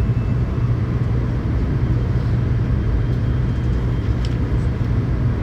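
Cabin running noise of a Tokaido Shinkansen train at speed: a steady, unbroken low rumble with a hiss of track and air noise over it.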